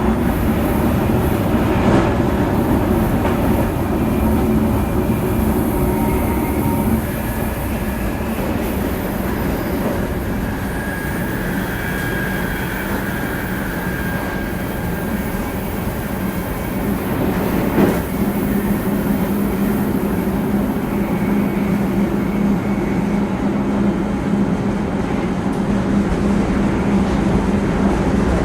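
700 series Shinkansen running, heard from inside the car: a steady rumble and hum with a faint higher whine, slightly quieter through the middle. Single knocks come about two seconds in and again near eighteen seconds.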